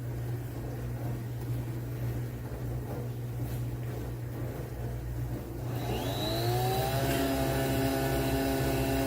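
Nespresso Vertuo Next brewing a single espresso: a steady low hum, then about six seconds in the capsule-spinning motor whirs up with a rising whine that levels off into a steady, slightly louder spin.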